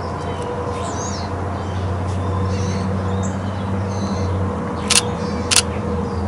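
Two shutter clicks from a Canon 90D DSLR about five seconds in, just over half a second apart, as frames are taken of a perched bird. Small birds chirp briefly in the background over a steady low hum.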